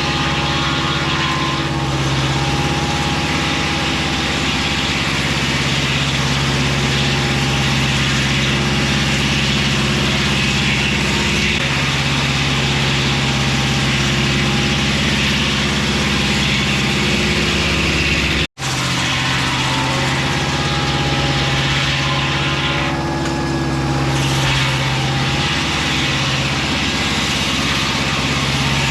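Mobile Dimension circular-blade sawmill's engine running steadily, with a momentary break about two-thirds of the way through.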